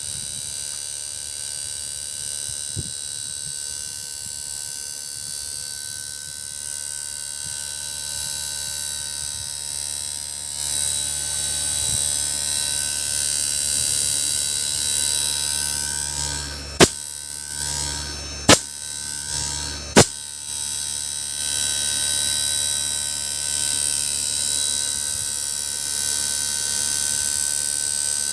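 Blue Star inverter air conditioner compressor running with a steady hum and faint high whine, getting louder about ten seconds in. Three sharp clicks come about a second and a half apart in the middle.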